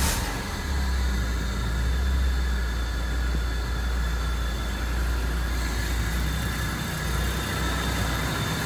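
Peugeot 406 engine catching suddenly right at the start, then idling steadily on its first run with the replacement radiator fitted.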